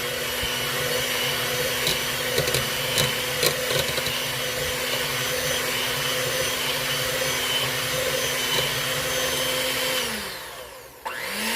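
Electric mixer whipping room-temperature butter in a bowl, its motor running at a steady speed. About ten seconds in it is switched off and winds down with a falling pitch, then spins up briefly once more near the end.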